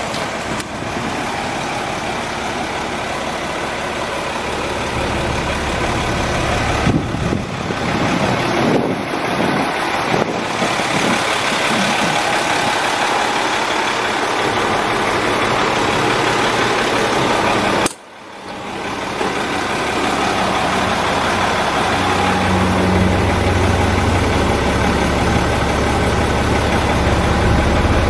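Box truck's engine running steadily. The sound cuts out briefly about two-thirds of the way through, and after that a deeper engine rumble grows stronger.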